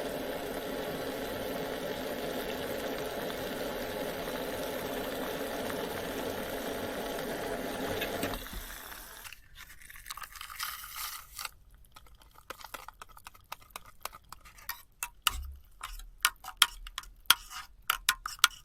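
Daihatsu Hijet kei van engine idling steadily, then switched off about eight seconds in. After that come scattered sharp clicks and taps, more frequent near the end.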